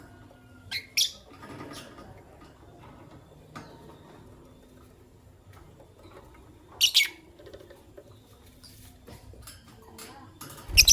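Pet lovebirds giving short, sharp, high chirps: two about a second in, one about seven seconds in, and a loud pair with a thump at the very end, with faint clicks and rustling between.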